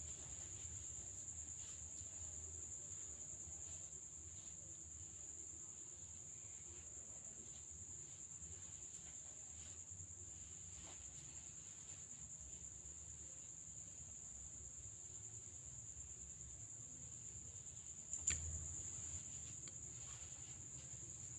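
A steady, high cricket trill over a low background rumble, with one sharp click near the end.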